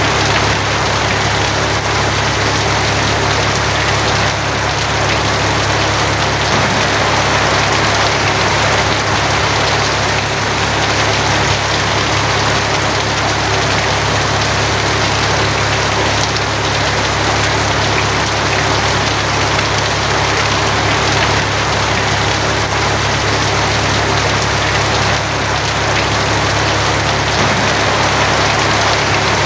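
Steady heavy rain falling on a tin roof, a dense even patter without pauses, over a continuous low hum.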